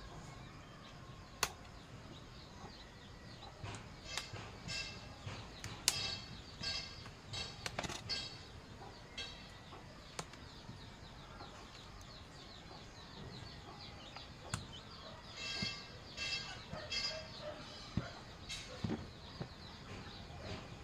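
Birds calling in two spells of quick repeated chirps, about four to eight seconds in and again around fifteen to seventeen seconds in, with a few sharp clicks in between.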